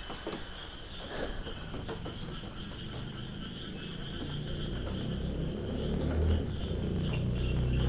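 A cricket chirping: a short, high chirp about every two seconds over a steady high insect hum.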